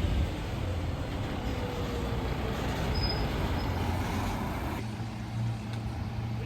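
Mercedes-Benz Econic refuse truck running, a steady low engine hum with a hiss above it that drops away about five seconds in.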